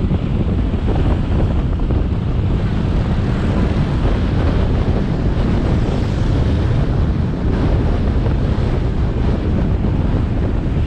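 Wind buffeting a GoPro Hero 7 Black's microphone on a moving motorbike, a steady loud rumble with the motorbike and road noise underneath.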